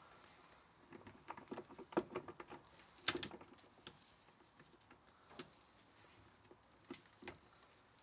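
Scattered light clicks and knocks of gearbox parts being handled and fitted back together by hand, the sharpest about three seconds in.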